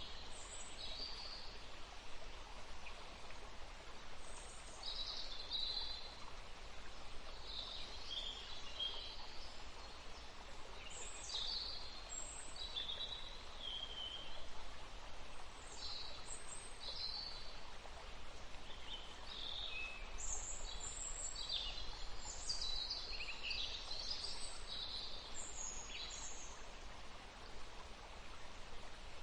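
Several songbirds chirping, with short, high calls, many of them falling in pitch, that come thick and often overlap, over a steady outdoor background hiss.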